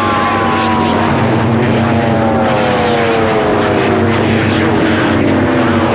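CB radio receiver on 27.025 MHz carrying loud static with several unmodulated carriers keyed at once, beating together into whistling heterodyne tones over a steady hum. Some of the whistles slide slowly down in pitch while others hold steady.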